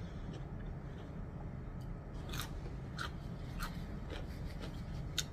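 Close-miked chewing of a pickled green bean: a few short, crisp clicks over a low steady hum.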